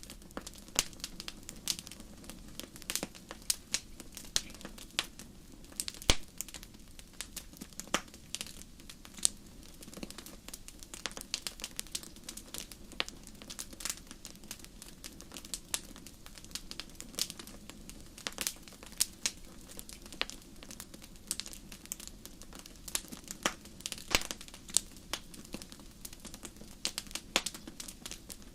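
Wood fire crackling in a fireplace: irregular sharp pops and snaps, several a second, some louder than others, over a steady low hiss of burning.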